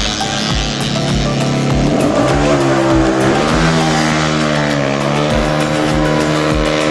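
Racing motorcycle engine running hard, its pitch rising about two seconds in and then dipping twice as it revs. Background music with a steady thumping beat plays over it.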